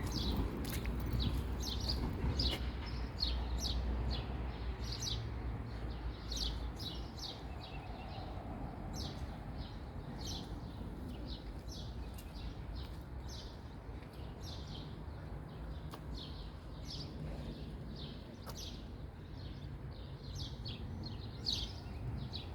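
Small birds chirping over and over, many short high chirps, over a low steady rumble that is stronger in the first few seconds.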